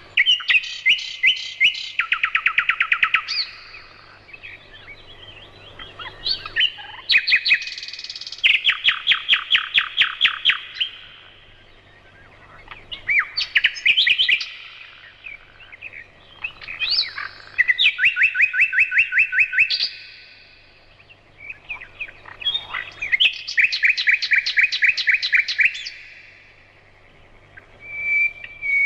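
A songbird singing in repeated phrases a few seconds long, each made of quick, even trills with some sliding notes, with short pauses between phrases.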